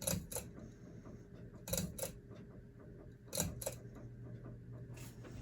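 Ceiling fan's pull-chain speed switch clicking as it is worked toward high speed: four pairs of sharp clicks, each a pull and release, about a second and a half apart, over the motor's faint steady hum.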